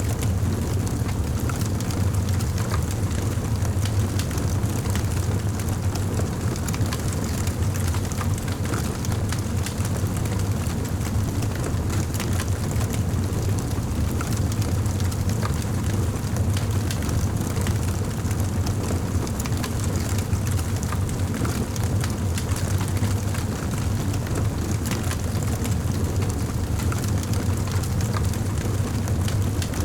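Wood fire burning steadily, with a constant low rumble of the flames and frequent small crackles and pops scattered through it.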